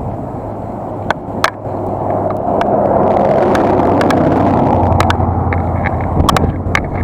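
A car passing close by, its engine and tyre noise swelling to a peak about three to four seconds in, then easing off. Scattered sharp clicks and knocks from the bicycle riding over bumps.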